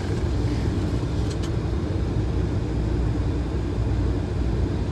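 Steady flight-deck noise of a Boeing 737 on approach: low airflow and engine rumble with a hiss above it, and a couple of faint clicks just over a second in.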